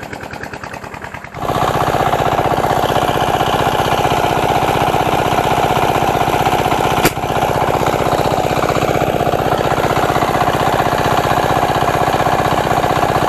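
A small engine running steadily with an even, rapid pulse, suddenly much louder about a second and a half in. A single sharp click comes about halfway through.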